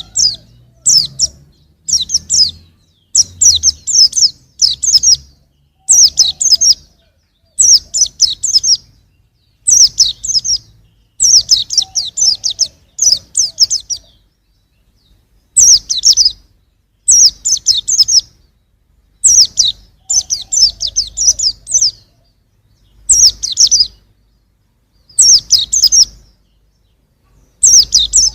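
Young white-eye (pleci) singing: short bursts of rapid, high twittering notes, one burst every second or two, with a slightly longer pause about halfway through.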